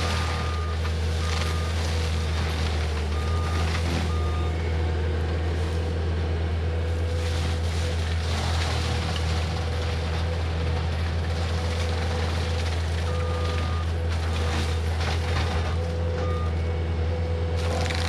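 Cat 259D compact track loader's diesel engine running steadily at working speed while mulching, with its backup alarm giving short beeps now and then as the machine reverses.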